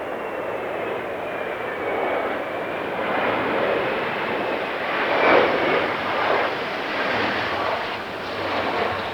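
Embraer 170 airliner's GE CF34 turbofans on landing: a high engine whine gliding slightly down in pitch over a rushing roar that swells and fades unevenly, loudest about five seconds in.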